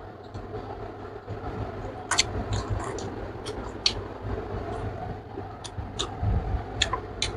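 Close-up eating sounds of a mouthful of pork and rice being chewed: scattered wet smacks and clicks, about eight over the stretch, over a steady low background rumble.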